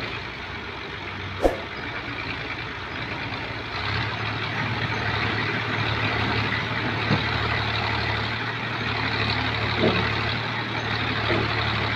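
Diesel tractor engine running steadily, growing louder about four seconds in, with a sharp knock just after a second in and a few lighter knocks later.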